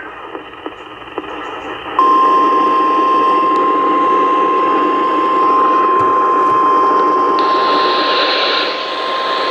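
NOAA Weather Radio warning alarm: a single steady 1050 Hz tone that starts about two seconds in and holds, over radio static hiss. The tone signals that a warning message is about to be read.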